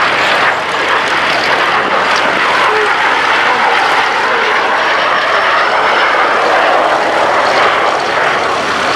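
The twin Rolls-Royce Derwent turbojets of a Gloster Meteor T.7 flying a display pass, a loud, steady jet rush.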